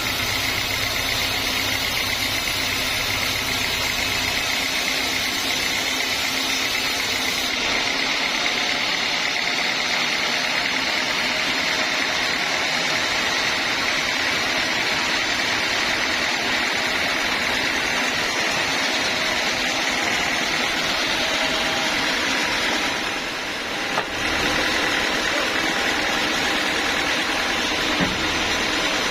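Homemade band sawmill running steadily, a continuous machine noise. A short dip in level and a sharp knock come about three-quarters of the way through, with another small knock near the end.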